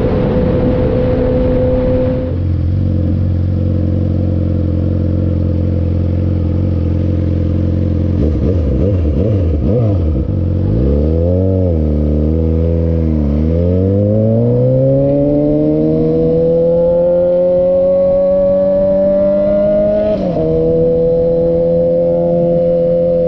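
2006 Suzuki GSX-R600 inline-four running through a Coffman's exhaust. The engine note holds steady, wavers and dips twice as the revs fall and pick up, then climbs smoothly under acceleration. A gear change about twenty seconds in drops the pitch, and it then holds a steady note.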